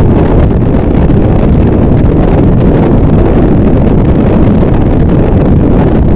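Harsh noise wall: a dense, unchanging mass of distorted noise at near full volume, heaviest in the low end, with no beat, pitch or change.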